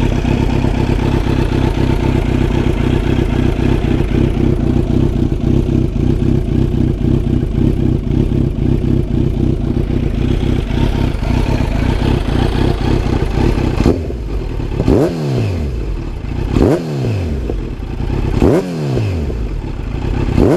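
Kawasaki Z900's warmed-up inline-four engine idling steadily through an Akrapovic carbon exhaust. From about fourteen seconds in, a few quick throttle blips, each revving sharply up and falling back to idle, with a little popping and crackling on the overrun.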